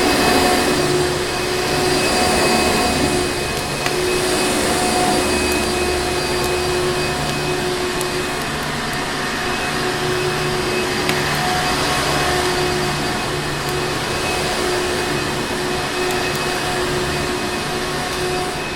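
Vacuum cleaner motor running steadily, a dense airy roar with a constant whine on top. A few faint crackles from a fireplace come through.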